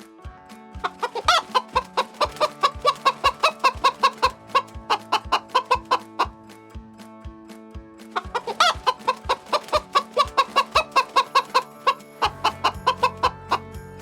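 Chicken clucking in quick runs of several calls a second, each run opening with a louder rising squawk, with a pause of about two seconds between runs. Background music with a steady beat plays underneath.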